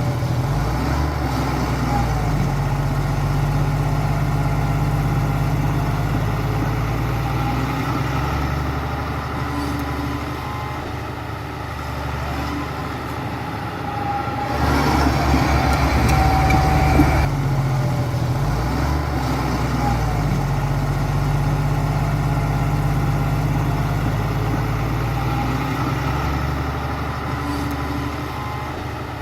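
Heavy diesel construction-machine engine running, its note shifting up and down as it works, with a louder, noisier stretch of about three seconds in the middle.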